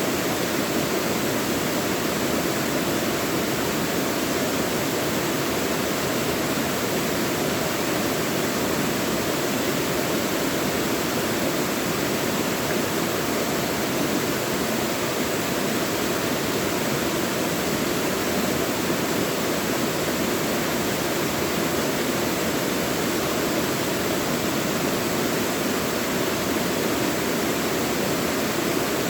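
Mountain stream rushing steadily over rocks in a valley, a constant full splashing hiss with no change.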